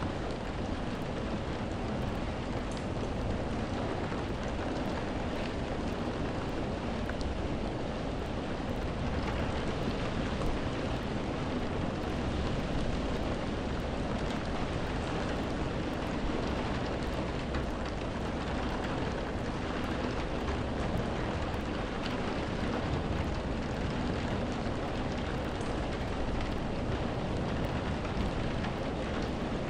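Steady rain: an even hiss with a low rumble beneath and scattered ticks of drops.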